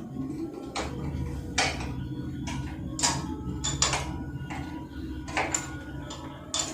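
Irregular light metallic clinks and knocks, roughly one or two a second, over a steady low hum.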